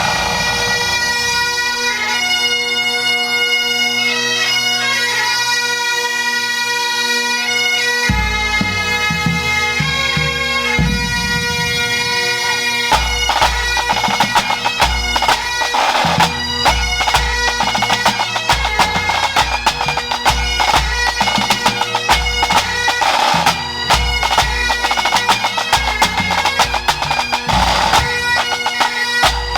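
Pipe band playing: Great Highland bagpipes sound a tune over steady drones. Bass drum beats join about eight seconds in, and snare drums with rapid strokes and rolls come in about thirteen seconds in.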